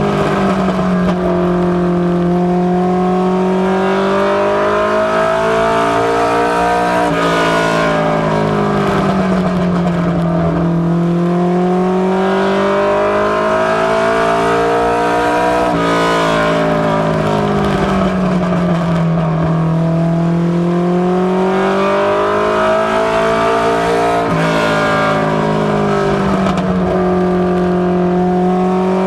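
Ministock race car's engine running hard through laps of a short oval. The revs hold steady, sag into a low dip and climb back up in a repeating cycle about every eight seconds, with an abrupt change in engine note at the start of each sag.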